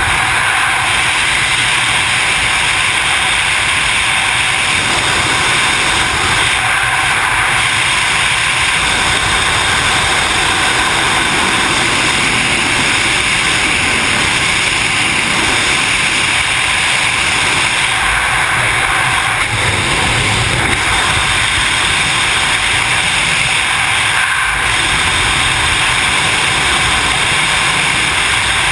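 Loud, steady wind rushing over the camera microphone during wingsuit flight.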